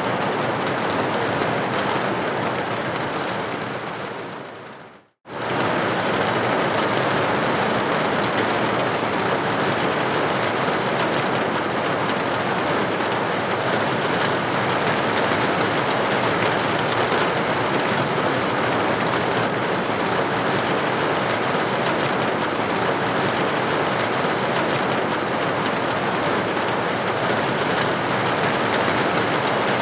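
Steady rain falling, an even dense hiss of drops. About four seconds in it fades out to a moment of silence and then comes back suddenly at full strength.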